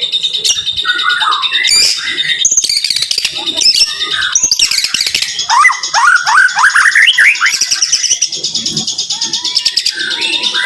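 White-rumped shama (murai batu) singing a fast, dense stream of chirps and whistles, with a run of quick upward-sweeping notes around the middle.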